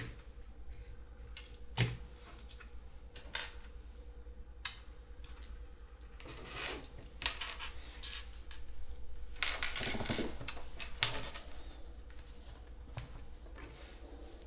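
Small plastic LEGO pieces being handled and pressed together: scattered sharp clicks every second or so, with two longer spells of rattling and rummaging among loose pieces about six and ten seconds in.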